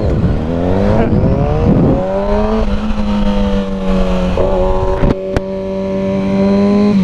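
Sport motorcycle engine pulling hard from the line, its pitch rising steadily, then stepping with gear changes about two and a half and four and a half seconds in before holding a steady note. Two short sharp knocks sound a little after five seconds.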